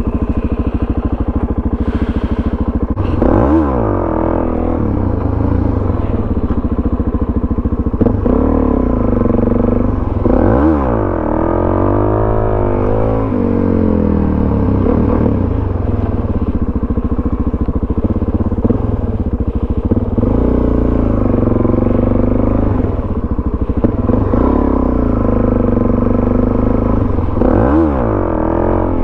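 Suzuki DRZ400SM supermoto's single-cylinder four-stroke engine, fitted with a Yoshimura exhaust, running under way. Its note drops and climbs again several times as the rider works the throttle and gears.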